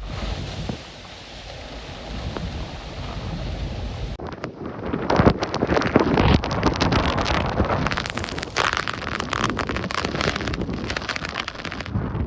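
Hurricane-force wind blasting across the microphone in gusts, getting louder about four seconds in with rapid buffeting.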